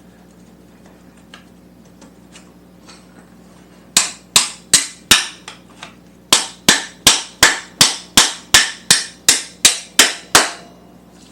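Hammer blows driving an engine mounting bolt through the motorcycle frame and engine mounts: four quick strikes, a short pause, then a steady run of about eleven strikes at roughly two and a half a second, each sharp and ringing briefly.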